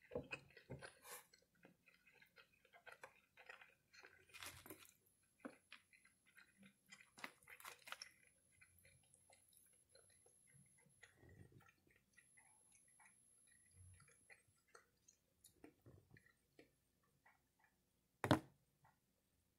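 Faint chewing of teriyaki chicken close to the microphone, with scattered small clicks and mouth noises, and one sharp click near the end.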